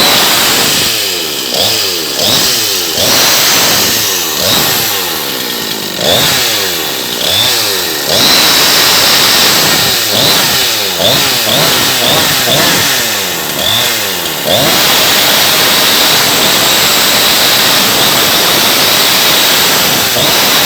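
Freshly restored Husqvarna 353 two-stroke chainsaw engine, revved in short repeated blips that fall back toward idle about once a second, then held at a steady high rev for the last third.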